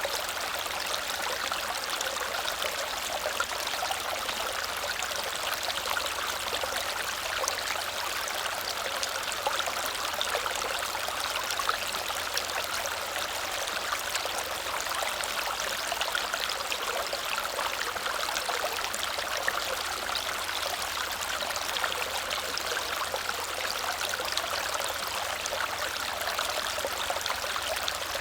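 Small waterfall splashing and cascading over stone into a stream, a steady rushing noise with fine splashing detail.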